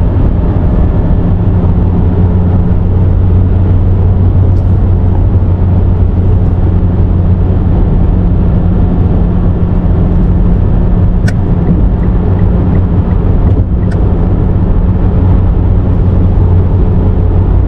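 A car driving at highway speed: steady engine drone and tyre and road noise, with two short clicks partway through.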